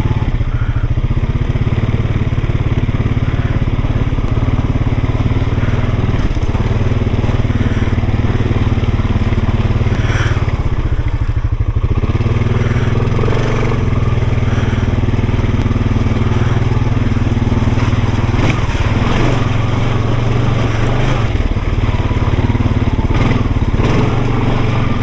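Off-road vehicle's engine running steadily at low throttle as it crawls over rough, washed-out trail, with a short dip in engine note about ten seconds in. Scattered knocks and crunches come from the wheels over rock and gravel.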